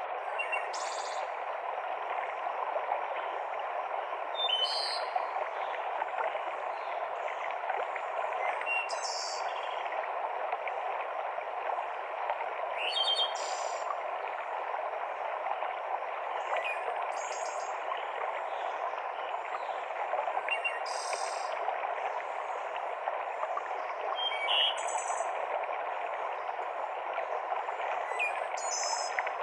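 Mountain stream rushing steadily over rocks, with a songbird repeating a short high-pitched song about every four seconds, eight times in all.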